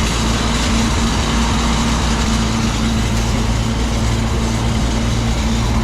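Farm machinery engine running steadily at an even speed.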